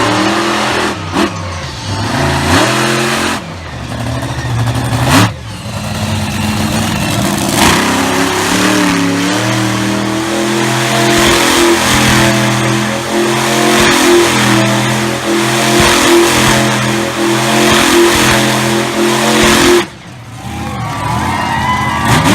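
Monster truck engine revving up and down with a few sharp bangs, then held at high revs for about ten seconds before cutting off suddenly near the end.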